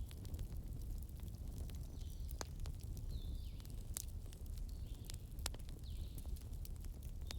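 Wood fire crackling in a fireplace: irregular sharp pops and snaps over a steady low rumble. Short, faint falling whistles recur about every second or so.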